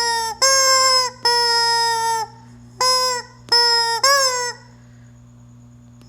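A chicken calling loudly: about six long, drawn-out calls of steady pitch in quick succession, the last one wavering up and down, then a pause of over a second.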